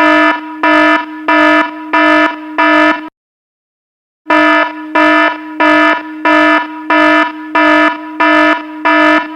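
Electronic alarm sounding as a buzzy beep, pulsing nearly twice a second. The run breaks off for about a second after three seconds, starts again, and stops near the end.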